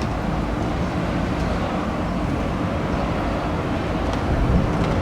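Steady running noise of a street tram, a low rumble and hum with a few faint high clicks.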